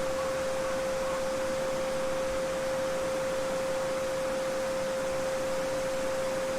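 A steady pure 528 Hz sine tone, held unchanged, over the continuous rushing of a babbling brook.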